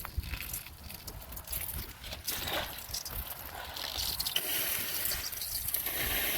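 Hot bronze sword casting being handled and quenched in water: irregular clicks and knocks with trickling water and a hiss that builds toward the end.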